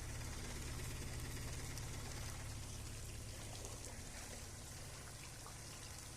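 Faint rain falling, with a steady low rumble underneath.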